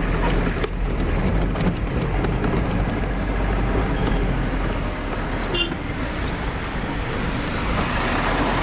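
Truck engine running with road noise as the truck drives in traffic, heard from the cab. A short high beep sounds about five and a half seconds in.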